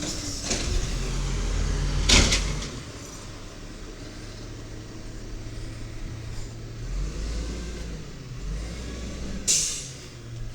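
1993 WhiteGMC diesel garbage truck engine running steadily, with two short sharp bursts of noise, one about two seconds in and a brighter, hiss-like one near the end.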